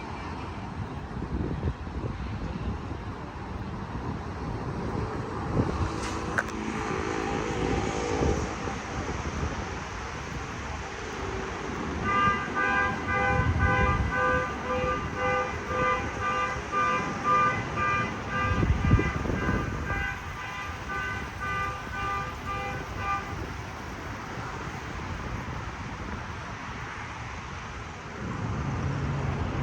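Traffic noise, with a vehicle horn sounding in quick repeated toots for about eleven seconds in the middle.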